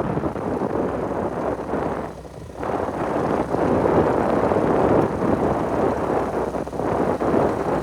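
Wind buffeting the microphone, a loud, gusty rumble that eases briefly about two seconds in.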